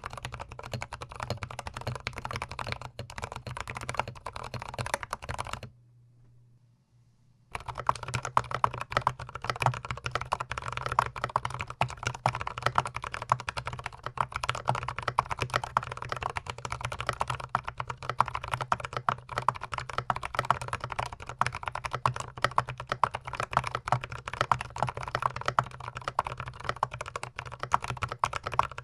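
Fast, continuous typing on a GMMK Pro mechanical keyboard fitted with Zealios tactile switches, the keys clacking rapidly with the mic close to the board. About six seconds in the typing stops for roughly two seconds of near silence, then resumes a little louder.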